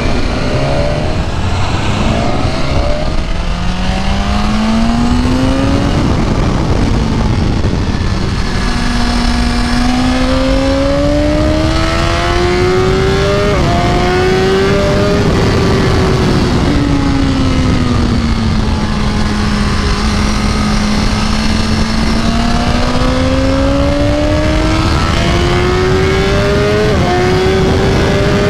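2020 BMW S1000RR's inline-four engine at full throttle on the track. It climbs hard through the revs with quick upshifts, falls away while slowing for a corner, then pulls hard again, under a steady rush of wind and road noise.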